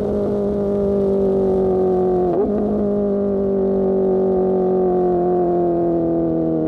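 Superbike engine through an Austin Racing GP1R exhaust, running steadily under way with its note slowly falling, and a short break in the note about two seconds in.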